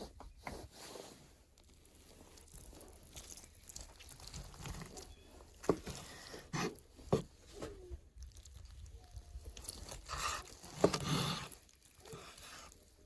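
Crunching and chewing, irregular, with a few sharp clicks; the loudest click comes near the end.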